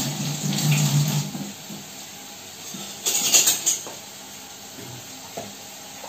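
Onion and tomato masala frying in a wok, a steady low sizzle, with a louder stretch of noise in the first second and a half and a brief crackle of handling sounds about three seconds in.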